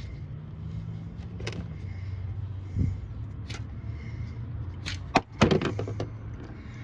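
Hand tools working at a car's oil drain plug: scattered clicks and knocks, the loudest pair about five seconds in, over a steady low hum.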